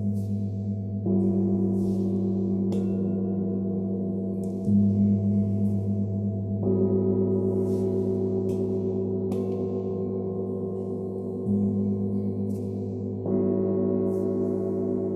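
Meditation sound bowls ringing in long, layered tones over a low hum, a new bowl struck about every two seconds so that fresh tones join the sustained ones.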